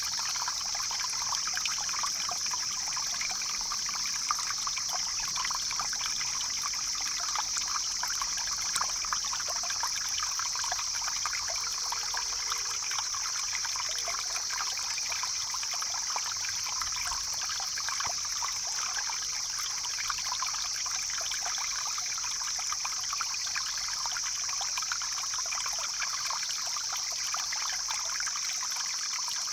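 A stream flowing: steady, continuous trickling and rushing water with a constant high hiss.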